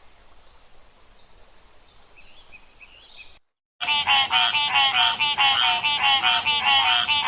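Faint outdoor background with a few small bird chirps, then after a brief cut a loud animal call repeated rapidly, about three times a second, which stops suddenly near the end.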